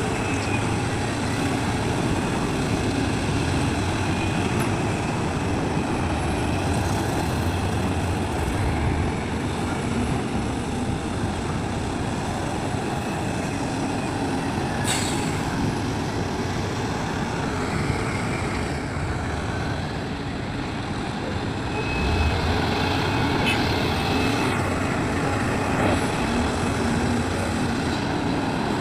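Heavy diesel machinery running steadily at work, an excavator's engine with a dump truck's. There is one sharp knock about halfway through, and the sound swells for a few seconds about three-quarters of the way in.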